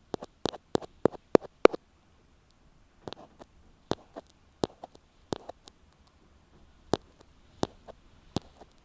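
Ear pick tapping and scraping directly on an earphone microphone in close-up. About six quick, crisp taps come first, then after a short pause softer, slower taps with light scratching.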